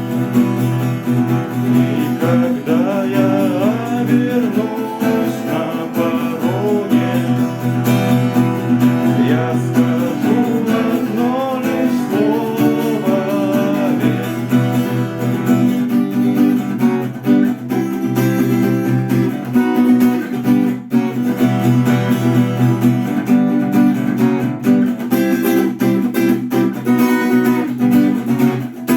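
Acoustic guitar playing a song: strummed chords with a melody line above them.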